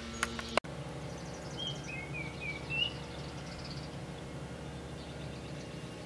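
A bird sings a short run of chirps about two seconds in, over a steady low outdoor background noise. Two sharp clicks sound just before, in the first second.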